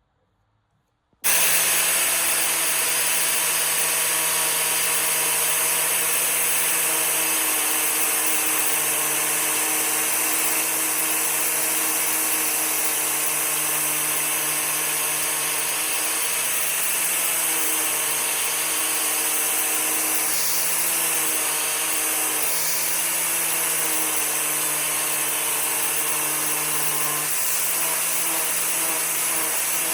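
An electric power tool starts about a second in and runs steadily with a loud motor hum, its pitch sagging briefly a few times as it takes load.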